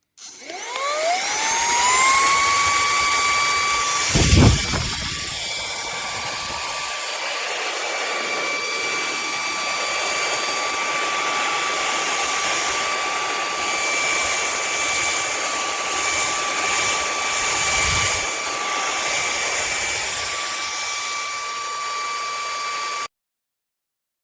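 lautux Turbotastic Pro 2 handheld vacuum cleaner switched on: its motor spins up in a rising whine within about a second, then runs at a steady high whine. A dull thump comes about four seconds in and a softer one later, and the motor sound stops abruptly near the end.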